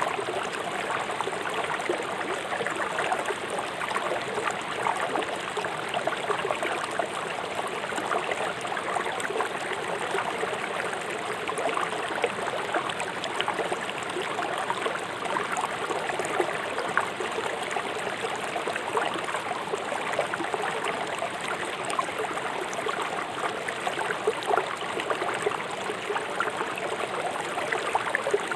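River water flowing swiftly over rocks: a steady rush full of small splashes and gurgles.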